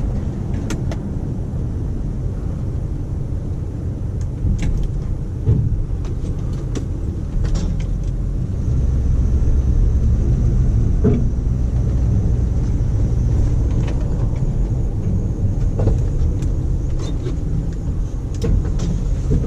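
1991 Dodge W350 pickup's 360 V8 engine running as the truck backs up, pushing a snowplow. The engine grows louder about halfway through, with a few scattered knocks.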